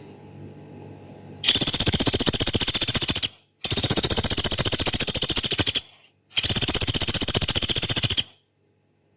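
Pelatuk beras woodpecker giving three long, harsh, very rapid rattling trills, each about two seconds long with short breaks between them.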